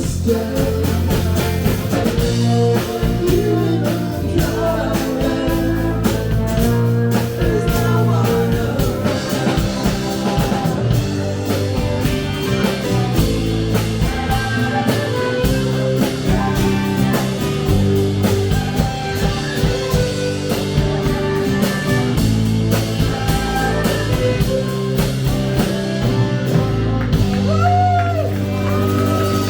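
A live rock band playing with electric guitar, bass and a drum kit keeping a steady beat.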